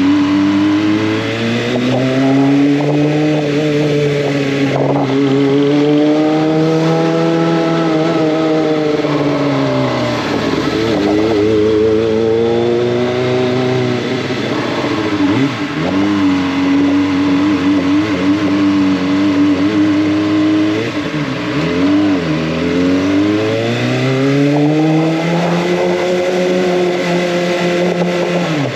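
Kawasaki ZX-25R's 250 cc inline-four running under way, its exhaust note climbing as the revs build, falling back about ten seconds in, and rising again near the end.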